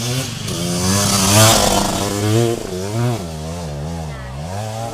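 Off-road motorcycle engine revving hard in repeated surges on a steep uphill climb, the pitch rising and falling several times and dipping low shortly before the end.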